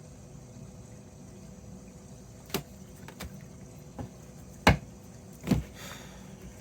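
A few separate light knocks or taps, the loudest about two-thirds of the way through, followed by a brief soft rustle.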